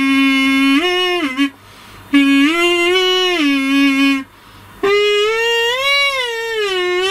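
Plastic kazoo hummed into, buzzing out a slow tune in held notes, in three phrases with short breaks between them; the last phrase glides up and back down in pitch.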